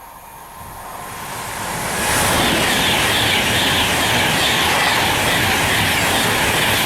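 Class 390 Pendolino electric train passing at speed: a rushing noise of wheels and air that builds over the first two seconds, then holds loud and steady.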